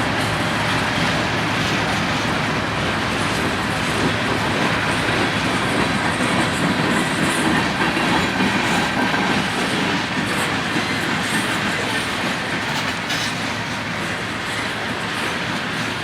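Railroad cars rolling past on the track: a steady rail noise with a few light clicks, easing slightly toward the end.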